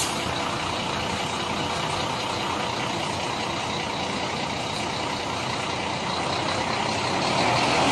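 Heavy vehicle engine running steadily, getting louder near the end.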